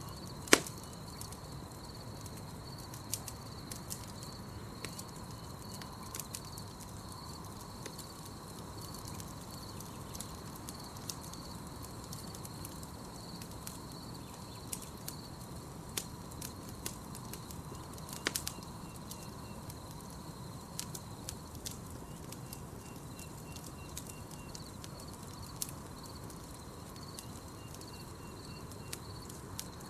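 Campfire crackling, with scattered sharp pops: a loud one just after the start and a cluster about eighteen seconds in. A steady, high pulsing chirp of night insects runs underneath.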